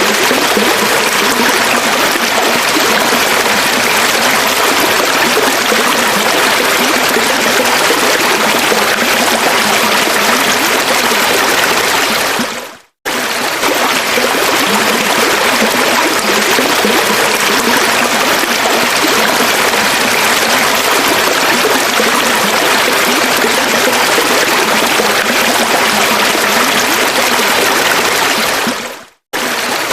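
River water flowing in a steady, even rush. Twice the sound fades out and then comes straight back, about halfway through and again near the end.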